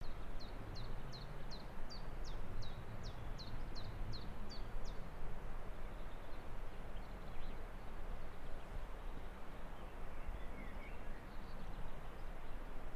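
A small bird calling: a run of about a dozen quick, high, falling notes, roughly two or three a second, which stops about five seconds in. A few faint chirps follow over a steady outdoor background hiss and low rumble.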